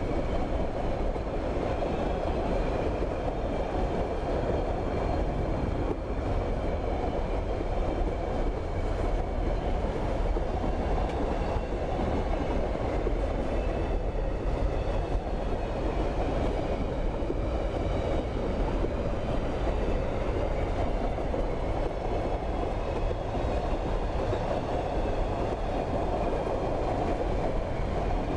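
Freight train of hopper cars rolling past close by: a steady rumble of steel wheels on the rails that holds even throughout.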